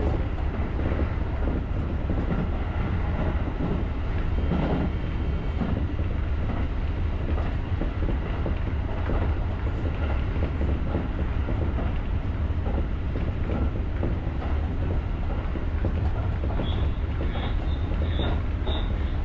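JR rapid electric commuter train running along the line, a steady rumble of wheels on rail heard from the driver's cab. A few short high-pitched tones come near the end.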